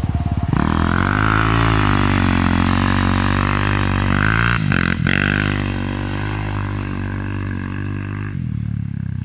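Yamaha YZ450F's single-cylinder four-stroke engine running hard at high revs, its pitch dipping and climbing again briefly around five seconds in, then settling lower near the end.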